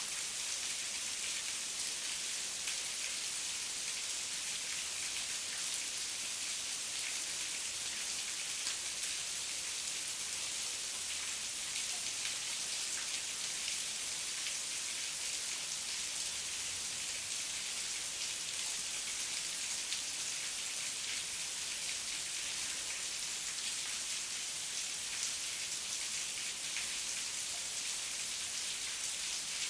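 Steady heavy rain falling, a constant hiss with fine patter of drops and no thunder.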